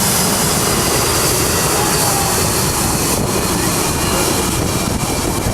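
Boeing 727 jet engines running steadily behind the runway end: a loud, dense rush of noise with a faint high whine on top.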